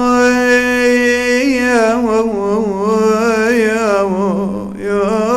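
A single man's voice chanting Arabic elegiac poetry in the melodic style of a Husayni majlis recitation. He draws out one long melismatic note with wavering ornaments, briefly dips near the end, then holds the note again.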